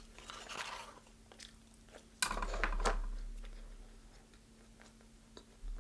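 A crunchy bite into deep-fried chicken about two seconds in, followed by chewing with clicks and crackles that fade out.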